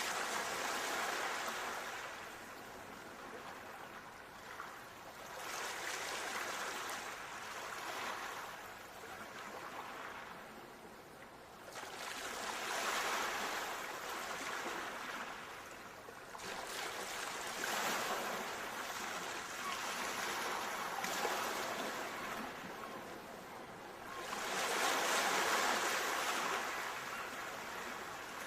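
Ocean waves breaking and washing up the shore, the surf rising and falling every few seconds.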